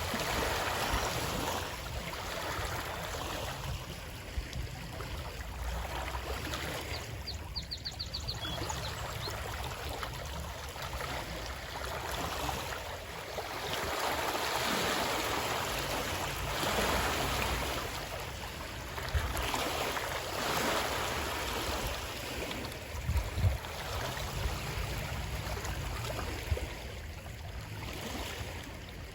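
Running water, a stream flowing and splashing, swelling and easing every few seconds. About seven seconds in there is a short quick series of faint high ticks, and a few soft low knocks come near the end.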